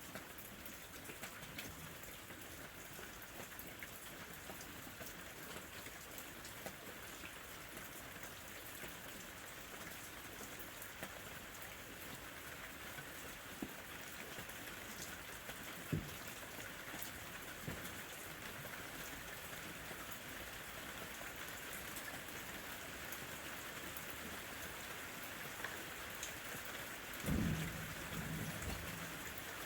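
Steady summer rain falling, with scattered drop ticks. A brief low rumble rises over it near the end.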